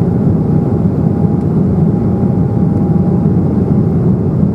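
Steady in-flight cabin drone of an Embraer 195 airliner: a low rumble of its CF34 turbofan engines and airflow, with a thin steady tone above it.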